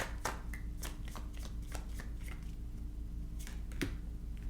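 A tarot deck being shuffled by hand: a quick run of card flicks and snaps in the first second or so, then a few scattered ones.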